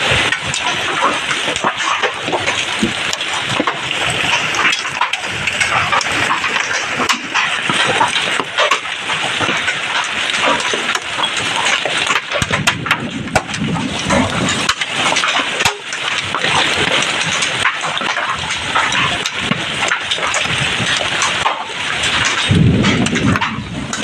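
Heavy rain pouring down: a loud, steady hiss of dense rainfall with drops pattering throughout.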